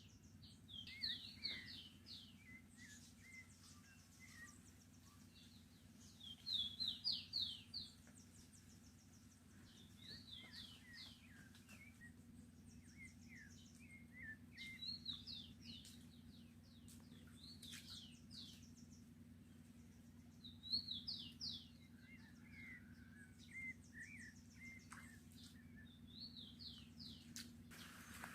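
A songbird singing in repeated short phrases, each a quick run of high, downward-sliding notes, about seven phrases a few seconds apart; the loudest come about six seconds in and near twenty seconds in. A faint steady low hum lies underneath.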